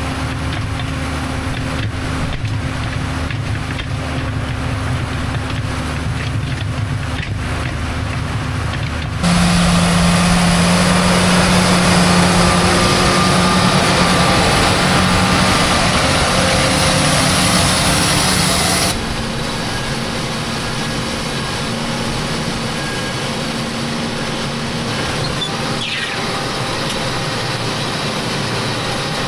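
Tractor engine running steadily under load. About nine seconds in, the sound jumps abruptly to a louder, hissier running, and it drops back to the steadier hum about ten seconds later.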